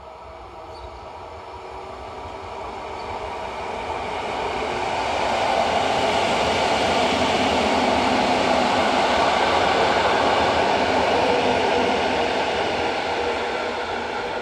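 Two coupled EN57AL electric multiple units passing on the line, the noise of wheels on the rails growing louder over the first five seconds or so, holding steady, then easing slightly near the end.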